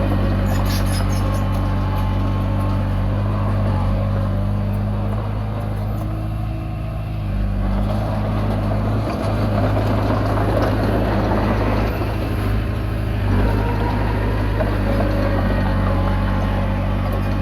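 Komatsu D20P crawler bulldozer's diesel engine running steadily, easing slightly about six to seven seconds in and then picking up again.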